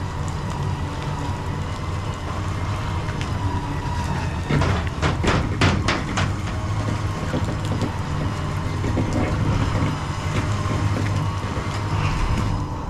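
A truck engine idling steadily with a high whine over it, and a quick run of metallic clanks about five seconds in.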